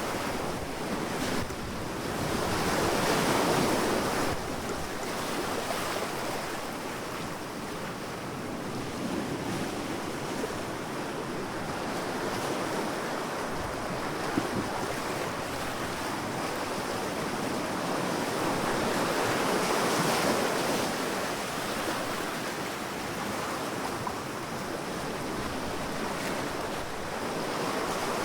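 Sea waves breaking and washing up a sandy beach, as a continuous rush of surf that swells up about three seconds in, again around twenty seconds in, and once more near the end.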